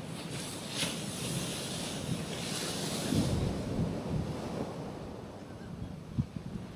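Gentle ocean waves washing onto a rocky shoreline, with a hiss of surf about a second in and again near the middle. Low rumbling wind buffets the microphone.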